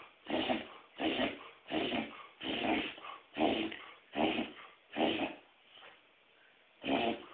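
A dog reverse sneezing: seven forced, rapid inhalations through the nose, about one every three-quarters of a second, then a pause of nearly two seconds and one more near the end.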